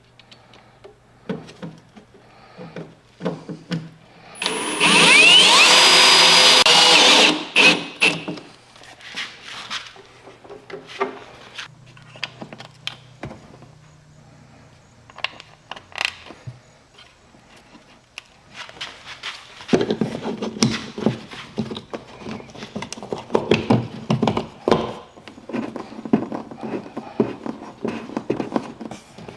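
A power drill runs for about three seconds, its pitch gliding as its speed changes. Scattered clicks and knocks follow, then a long stretch of clattering and handling of parts and tools.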